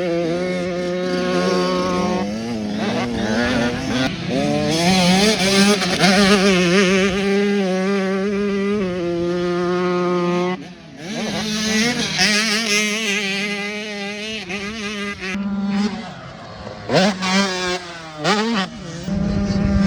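Motocross bike engine running hard with its pitch rising and falling on the throttle. It dips briefly about ten seconds in, then revs back up, with quick sharp revs near the end.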